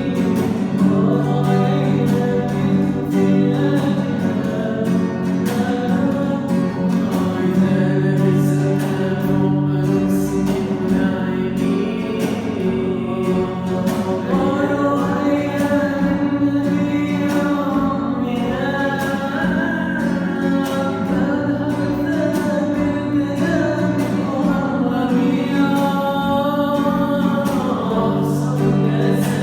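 A singer performing a melodic Arabic song over instrumental accompaniment, the voice gliding between notes above steady low held tones.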